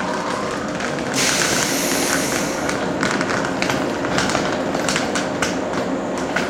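Electric train pulling out of the station: a faint rising motor whine, a burst of air hiss about a second in, then wheels clicking over rail joints.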